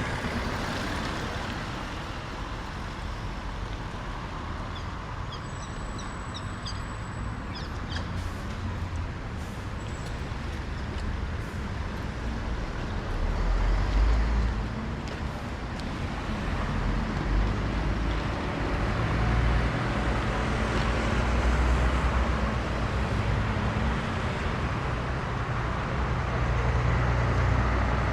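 Road traffic: cars driving past, with a low engine rumble that swells about halfway through and stays heavier toward the end as vehicles pass close by.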